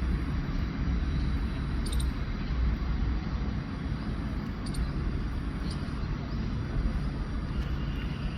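Steady low rumble of outdoor background noise with a few faint clicks; no bird call stands out.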